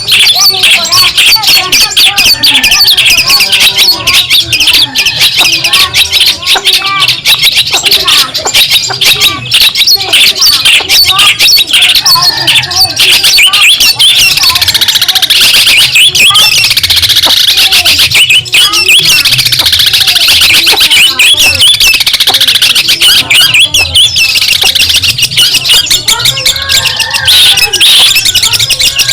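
Long-tailed shrike (cendet) singing a rapid, unbroken stream of high, chattering calls, loud throughout.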